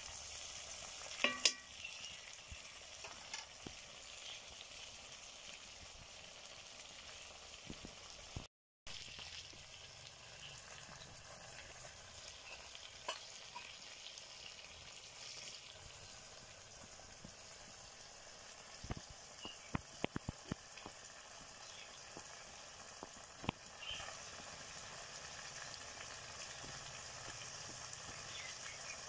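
Chicken masala gravy sizzling steadily in a black kadai over a wood fire. A ladle stirs with a few sharp clicks against the pan about a second in, and a few more sharp clicks come in the second half.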